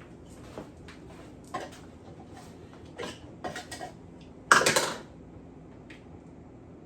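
A coffee cup and things around the coffee machine being handled: a series of light knocks and clinks, with one louder clatter lasting about half a second around four and a half seconds in.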